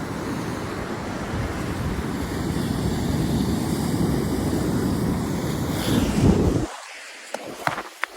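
Ocean surf with strong wind buffeting the microphone, a steady low rush that builds slightly, then the low rumble cuts off suddenly near the end, leaving a few sharp clicks.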